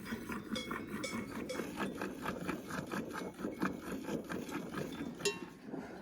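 A cow being milked by hand: short squirts of milk hitting the pail in a quick, steady rhythm.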